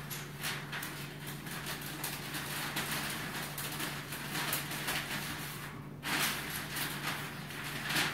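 Paper rustling and scraping as sheets of cage-lining paper are fed into a parrot cage's tray, in irregular bursts that get louder about six seconds in, over a steady low hum.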